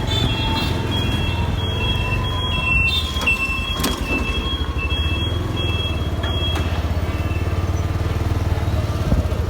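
Motor vehicle engine running with a low, pulsing rumble. For about the first seven seconds a string of short high tones alternates between two pitches over it.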